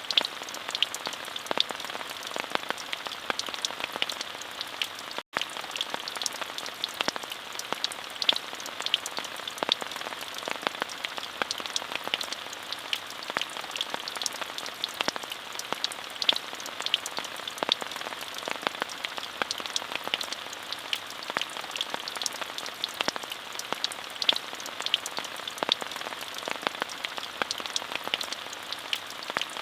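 Steady rain falling, an even hiss dotted with many sharp individual drop taps. It cuts out for a split second about five seconds in.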